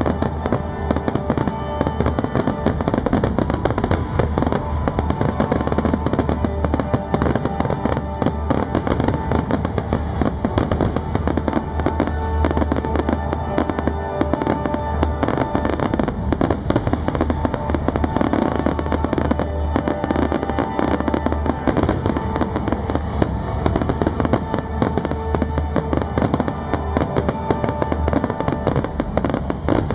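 A fireworks finale barrage: many aerial shells exploding in rapid succession, their bangs and crackles overlapping into a continuous dense volley with no gaps.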